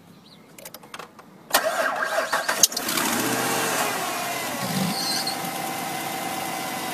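A Jeep's 5.7-litre Hemi V8 being started from a portable jump starter clamped to the battery. A few light clicks, then a second and a half in the starter cranks and the engine catches. Its pitch rises and falls as it flares up, then it settles into a steady idle.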